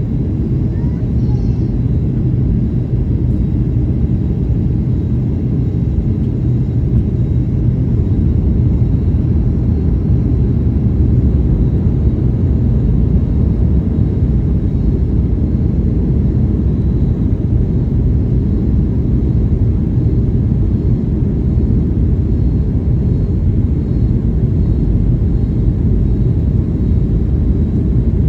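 Steady low rumble of a Boeing 737 heard from inside the passenger cabin.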